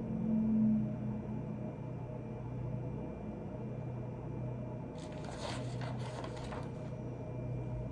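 A steady low electrical hum, with a short run of rustling strokes about five seconds in.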